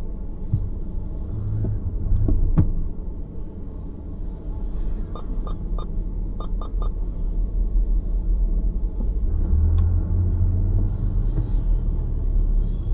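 Low, steady rumble of a car driving, as heard from inside the cabin. There is one sharp click about two and a half seconds in, and a run of short beeps around the middle.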